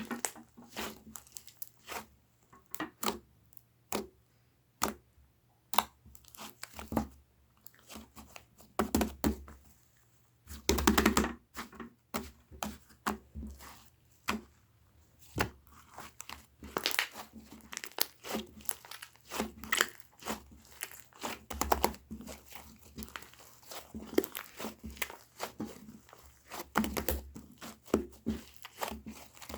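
Slime being played with by hand: a dense run of sharp clicks, pops and crackles as it is squeezed, folded and stretched, with several louder crackling bursts along the way.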